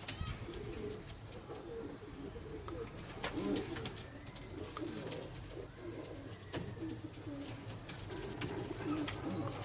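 Domestic pigeons cooing, with repeated low, wavering calls overlapping throughout and scattered short clicks.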